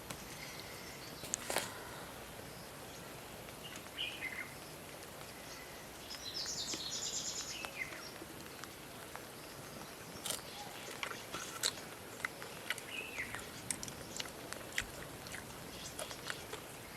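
Forest ambience with birds calling: short falling chirps a few seconds in and again near the end, and a high trilling call in between. Scattered sharp ticks and taps run through the second half.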